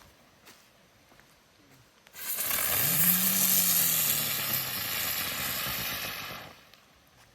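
A ground spinner firework burning: a loud hiss starts about two seconds in, with a low hum that rises and then slowly sinks as it spins. It burns out after about four and a half seconds.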